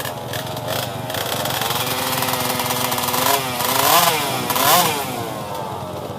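Pit bike engine running, revving up sharply twice near the middle and dropping back each time.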